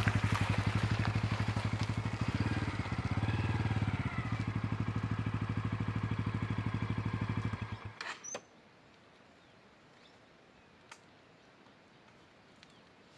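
Motorcycle engine running with a steady, rapid firing beat, picking up slightly for a moment in the middle, then switched off about eight seconds in, followed by a couple of clicks and quiet.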